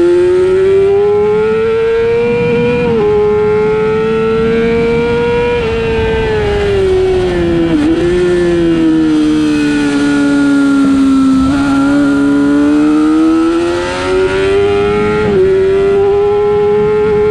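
Race motorcycle engine heard from on board, running at high revs that climb and ease off, with several gear changes, over rushing wind and road noise.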